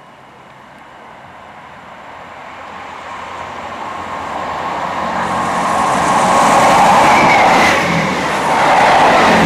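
A diesel train approaching along the line, its noise growing steadily louder for about six seconds and then running loud close by.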